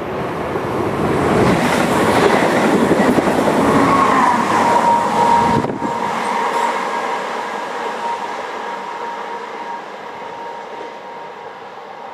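Red SBB double-deck electric S-Bahn train running along the station track, with the rumble and rush of its wheels on the rails building over the first few seconds. A thin steady whine or squeal comes in at about four seconds. The noise drops sharply about halfway through and then fades.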